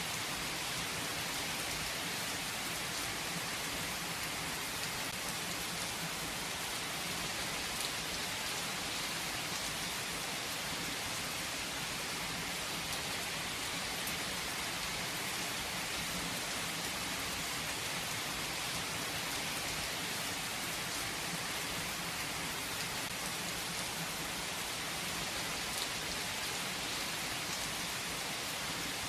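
Steady rain falling: an even hiss of rain on surfaces, with the odd single drop ticking out now and then.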